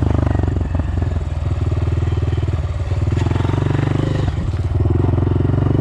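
Dirt bike engine running steadily while riding, easing off briefly a couple of times.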